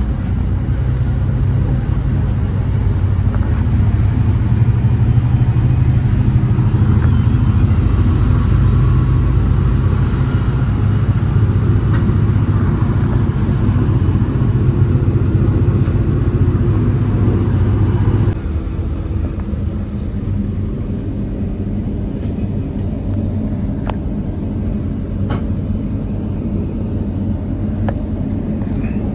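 A V/Line N-class diesel-hauled passenger train running with a loud, steady rumble, and a faint high whine rising slowly in pitch. About eighteen seconds in, the sound drops suddenly to a quieter, similar rumble.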